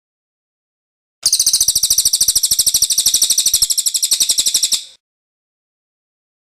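Cililin bird singing its rolling trill: one fast, even run of many repeated high notes lasting about three and a half seconds, starting about a second in.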